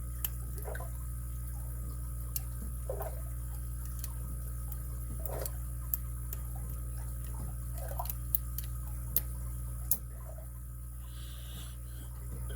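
Lock pick working the pins of a padlock under tension: a handful of small, sharp, irregularly spaced clicks over a steady low background hum.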